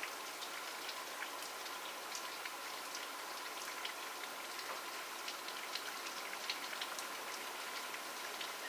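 Steady rain falling: an even hiss with many individual drops ticking sharply on a surface.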